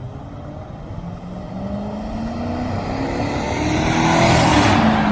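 A motor vehicle's engine accelerating, its pitch slowly rising and growing louder to a peak about four to five seconds in.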